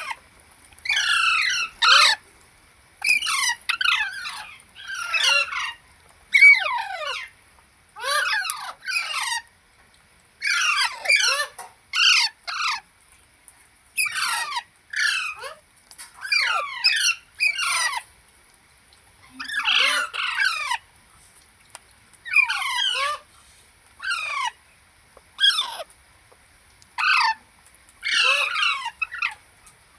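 A parrot calling over and over with harsh squawks. Each call is a quick run of falling notes lasting about a second, repeated every one to two seconds.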